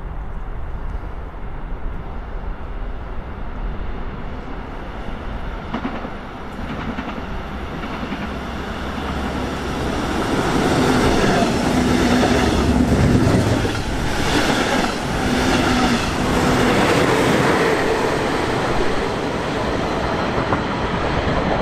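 A train passing on the line. It grows louder over the first half and then runs by with a steady hum and a regular clacking of wheels over the rail joints.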